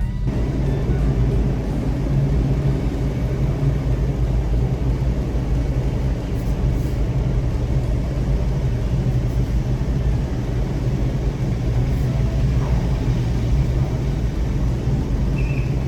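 Steady, loud low rumble of a running engine with a constant deep drone, holding even throughout.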